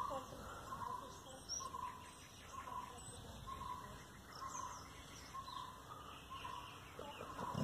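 A bird's short call repeated steadily, a little faster than once a second, with faint higher chirps from other birds.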